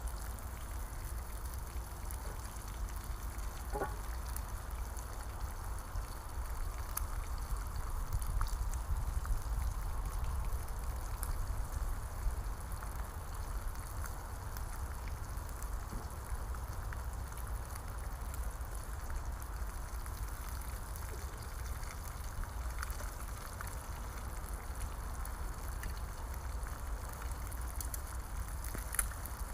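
Bacon and eggs frying over a wood campfire: a steady sizzle with scattered small crackles, over a constant low rumble.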